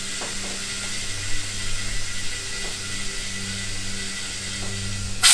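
Compressed air hissing steadily into a tire through an air chuck, over a low steady hum. A short loud burst of hiss comes right at the end.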